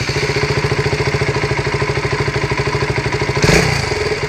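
KTM Duke 200's single-cylinder engine idling with a fast, even pulsing beat, carrying the rattling noise the owner is worried about. A brief louder surge comes about three and a half seconds in.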